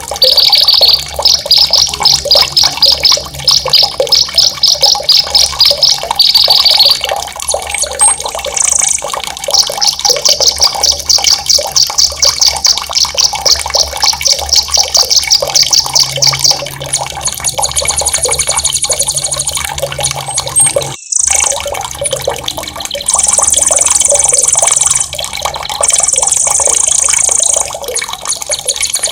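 Songbird singing loud, sharp rolling trills of fast repeated high notes, broken by several harsh high buzzy phrases, over the steady sound of running water.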